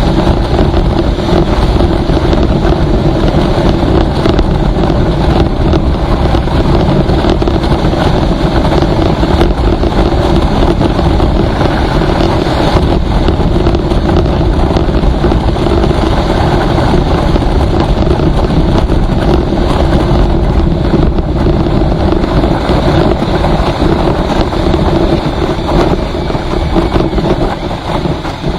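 Road vehicle travelling steadily at speed: a constant engine hum under heavy wind rush on the microphone, easing off a little near the end.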